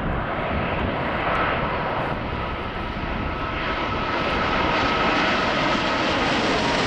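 Airbus A380-841's four Rolls-Royce Trent 970 turbofans on landing approach: a steady jet roar with a whine, growing slightly louder and brighter toward the end.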